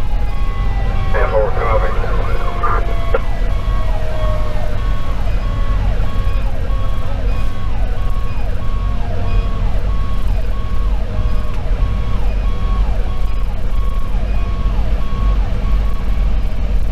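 Fire engine sirens heard from inside the cab over a steady engine and road rumble. One siren tone slowly falls in pitch over the first few seconds, while an electronic siren repeats a quick falling pattern about one and a half times a second.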